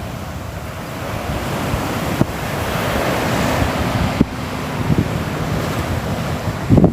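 Sea waves washing onto a shore: a steady rush of surf that builds over the first few seconds, with a few low rumbles near the end.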